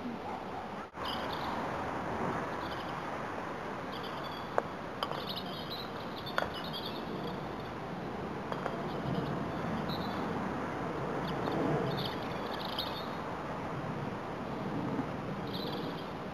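Birds singing in short, repeated high phrases over a steady outdoor background hiss, with two sharp knocks about four and a half and six and a half seconds in.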